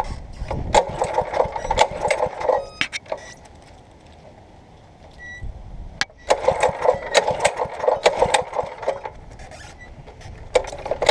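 Mini bike's small engine cranked and sputtering in three short rattling bursts of about two seconds each, dying out between them instead of staying running: it stutters and cuts power although it has enough fuel.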